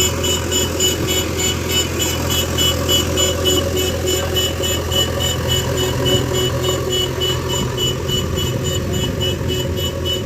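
Heavy diesel engine running steadily under load, with a fast, even high ticking over it, about four a second, that stops at the end.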